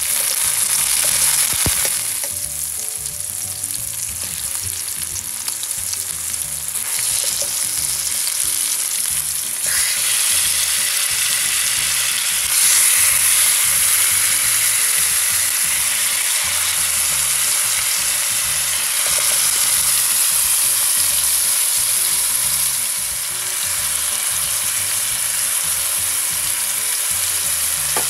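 Chopped onion, garlic and tomato sizzling in hot oil in a stainless steel wok, stirred with a metal spoon. Partway through, raw chicken thigh pieces are in the pan and the sizzle grows louder, then carries on steadily.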